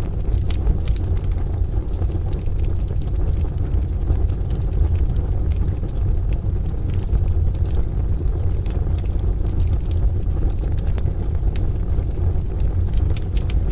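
Wood fire crackling and popping in a stove, scattered sharp crackles over a deep, steady rumble from a rain-and-distant-thunder ambience bed.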